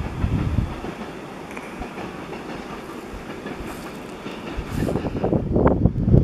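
Freight train of container wagons rolling past, its wheels clattering in a clickety-clack over the rail joints. A louder, gusty rumble builds near the end.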